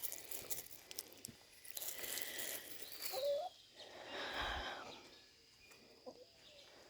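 Backyard hens clucking faintly, with one short rising call about three seconds in, over light rustling.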